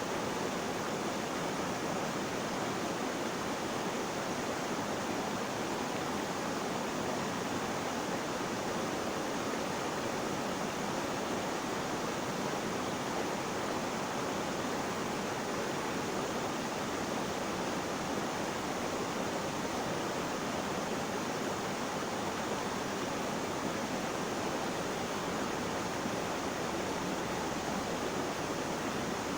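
Flowing water rushing steadily, an even hiss that does not change.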